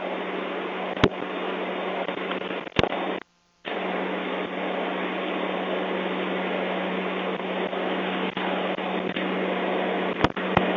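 Steady mechanical drone with a constant low hum, broken by a few sharp clicks and cutting out completely for a moment about three seconds in.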